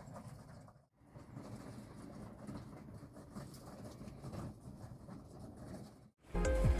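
Pigeons pecking at scattered feed on a shed roof: soft, irregular tapping and pattering, briefly cutting out twice. Music comes in just before the end.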